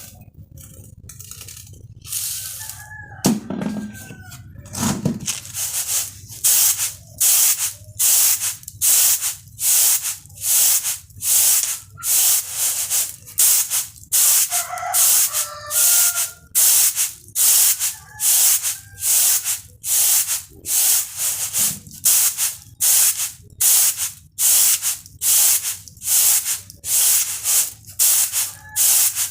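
Rice grains swishing and rattling in a woven bamboo winnowing tray tossed in a steady rhythm, about three tosses every two seconds, starting about five seconds in. Chickens cluck briefly near the start and again midway.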